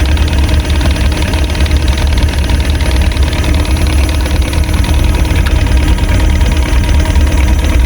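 Small fishing boat's outboard motor idling steadily, a constant low rumble.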